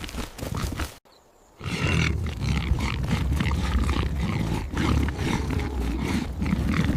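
A large animal growling, one long, continuous, low and rough call lasting about six seconds. It starts after a brief near-silent gap about a second in, and a few sharp knocks come before the gap.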